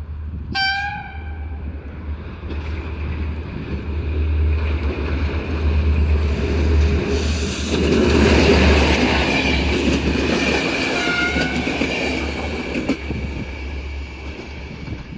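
A short horn blast about half a second in, then a diesel-electric 'GM' locomotive hauling an intercity passenger train approaches and passes close by. Its engine and wheels rumble louder and louder, with clickety-clack over the rail joints and a brief squeal from the wheels at the peak of the pass, then fade.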